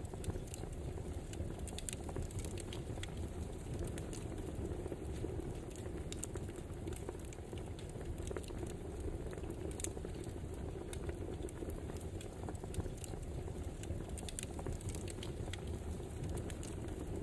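Wood fire burning, a steady low rumble under frequent small crackles and pops.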